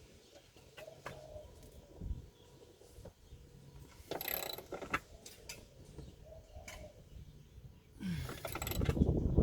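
Mechanical work on truck parts: scattered clicks and knocks, with a short rasping, ratchet-like burst about four seconds in and a louder one near the end.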